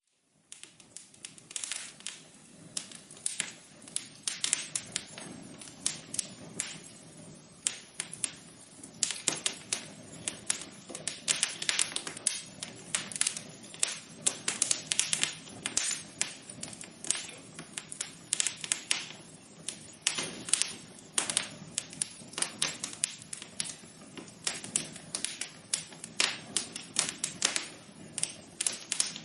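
Wood fire crackling in a fireplace: irregular sharp pops and snaps, several a second, over a low steady rush of the flames.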